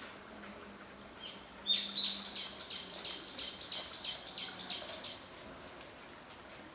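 A bird calling a rapid run of about eleven sharp, high, repeated notes, about three a second. The notes start about two seconds in and stop about five seconds in.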